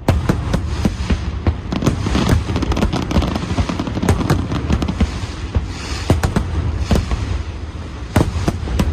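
Aerial fireworks going off in a rapid, dense barrage: many sharp bangs and crackles at uneven intervals over a continuous deep rumble of booms.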